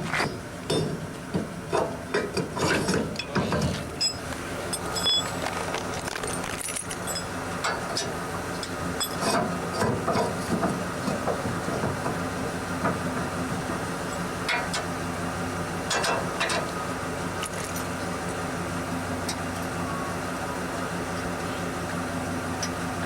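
A vehicle engine idling steadily, with knocks, clicks and rattles over the first few seconds.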